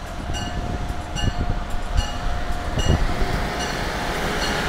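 Amtrak electric train passing close by along a station platform, its bell ringing about twice a second. The rumble of the wheels on the rails grows as the locomotive draws level, and a rushing hiss builds over the last couple of seconds.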